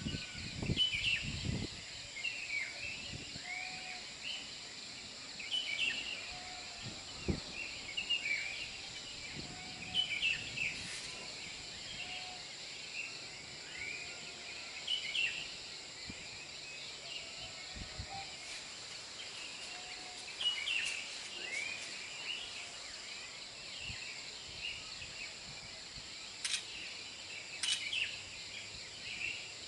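Short bird calls repeating every second or two over a steady high insect drone, with a few low thumps and a couple of sharp clicks near the end.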